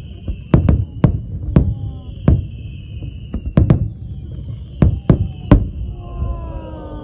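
Fireworks shells bursting in the sky: about ten sharp bangs, some in quick pairs, each with an echoing tail, over a steady low rumble. A falling whistle comes near the end.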